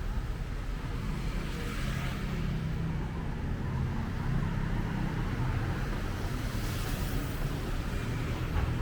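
Street traffic: a steady low engine hum, with vehicles swelling past about two seconds in and again near seven seconds.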